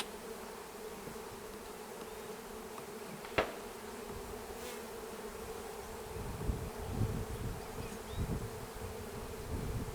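Honeybee colony buzzing steadily in an opened hive. A single sharp click comes about three and a half seconds in, and low, uneven rumbling sets in during the second half.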